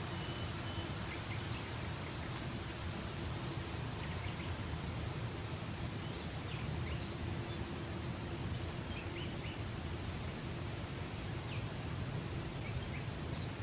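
Steady outdoor background noise with a faint hum and scattered short bird chirps.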